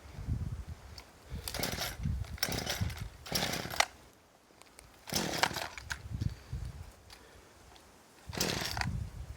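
Two-stroke chainsaw engine being restarted, firing in five short bursts of about half a second each without keeping running; its chain brake is stuck on.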